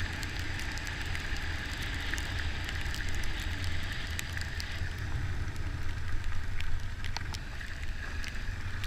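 Dirt bike being ridden along a trail: a steady low rumble of engine and wind on the microphone, with many scattered crackles and ticks throughout.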